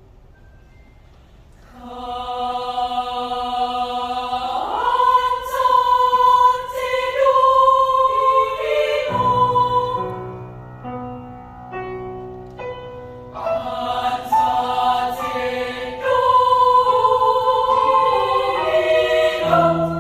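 Children's choir singing sustained, slowly moving chords, entering about two seconds in after a short quiet pause.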